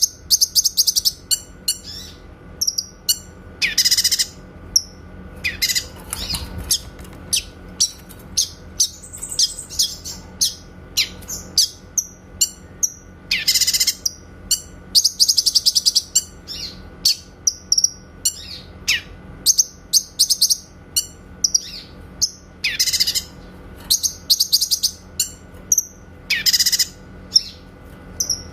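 Cucak kinoy songbird singing: loud, clear, sharp calls and quick rattling 'tembakan' bursts, repeated every second or two, over a faint steady hum.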